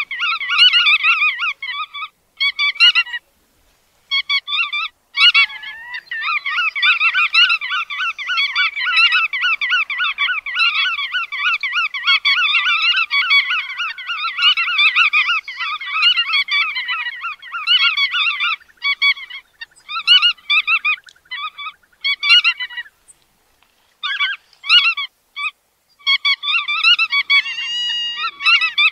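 Bar-tailed godwits calling: rapid runs of short repeated calls, broken off by a few brief pauses.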